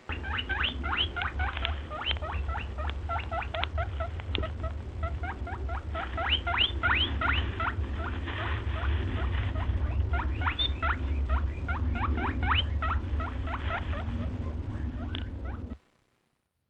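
A small animal squeaking over and over, a dense run of short rising squeaks, several a second, over a steady low hum. It cuts off abruptly near the end.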